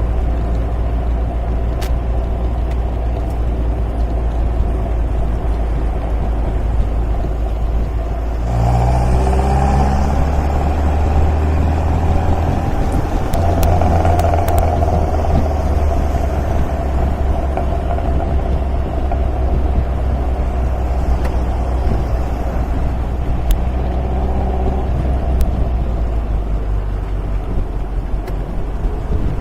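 An MGA sports car's four-cylinder engine running on the road. About eight seconds in, the engine note rises and gets louder as it pulls harder, then it carries on at a steady pace.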